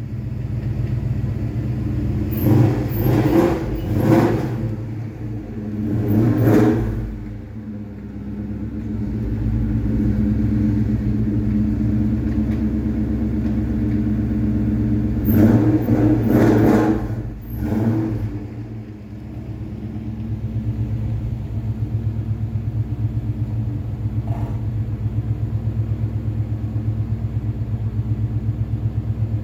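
Ford Coyote 5.0 V8 idling after a cold start, with louder swells about two to four seconds in, again around six seconds, and between fifteen and eighteen seconds, then settling into a steady, pulsing idle.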